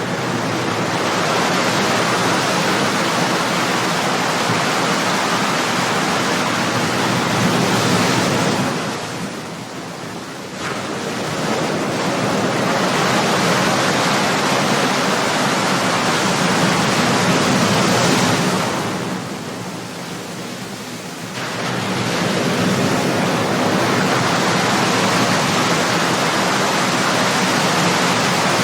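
Ocean surf: a continuous wash of breaking waves that surges, eases off twice, and builds again as the next waves come in.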